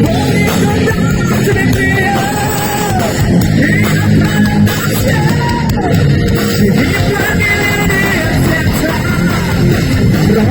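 Heavy metal band playing live, with electric guitar, over which a lead melody bends up and down in pitch.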